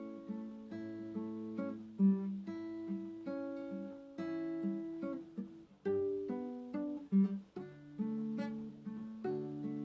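Acoustic guitar playing a slow, gentle piece, with single notes and chords plucked about every half second, each left to ring.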